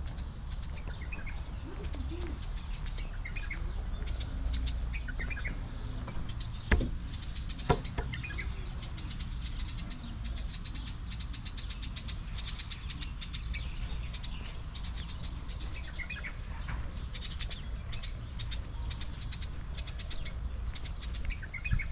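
Small birds chirping and twittering in fast chattering trills over a steady low background rumble, with two sharp clicks about seven and eight seconds in.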